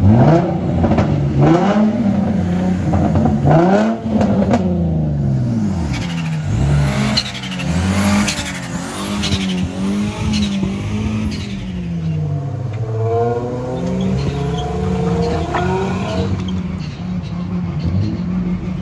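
Car engine revving up and down repeatedly, its pitch rising and falling many times.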